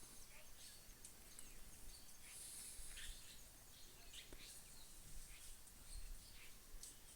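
Faint, scattered bird chirps over quiet outdoor rural background noise.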